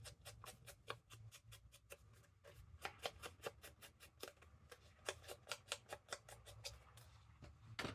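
Ink pad dabbed repeatedly against paper edges to ink them, making quick, light, faint clicks about four a second.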